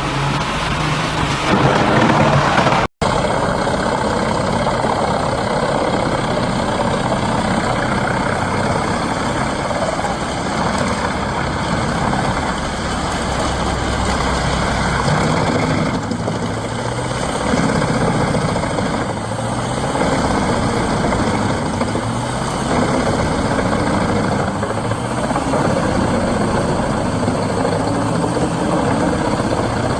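Large forestry wood chipper running steadily, its engine sound continuous with only small swells, broken by a momentary cut-out about three seconds in.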